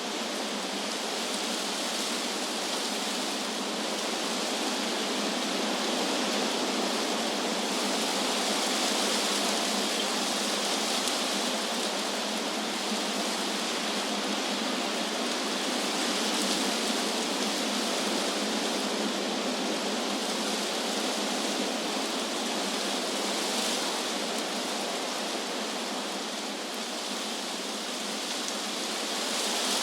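Wind blowing through trees, a steady rushing hiss of moving leaves that swells and eases slowly.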